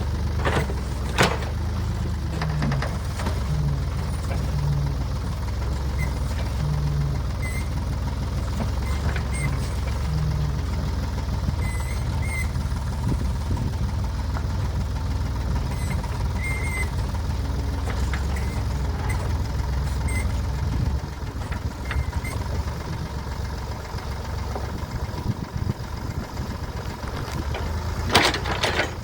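Ford 555A backhoe's engine running steadily while it digs, with a few sharp metal clanks and short squeaks from the working gear. The engine sound drops and turns rougher about two-thirds of the way through.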